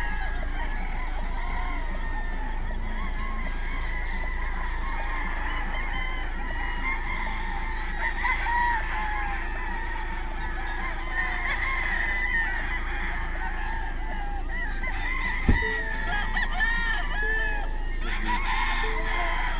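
A flock of chickens calling and clucking together in a continuous overlapping chorus, with a single sharp thump about fifteen seconds in.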